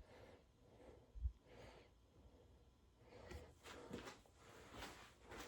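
Near silence, broken by a single low thump about a second in and a few faint, light knocks later on.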